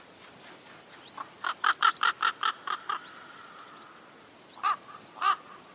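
Crow cawing: a quick run of about eight short, harsh caws, then two more spaced caws near the end.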